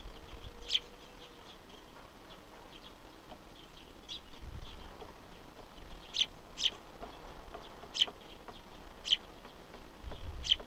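Wild birds calling: about seven short, sharp, high calls scattered through, over a fainter, steady run of thin repeated chirps.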